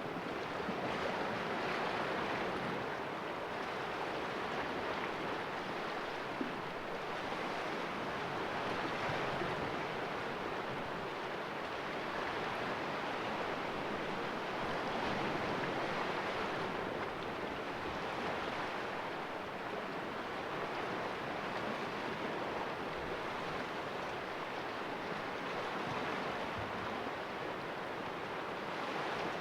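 Sea waves splashing and washing against the rocks of a small cove: a steady wash that swells and eases every few seconds.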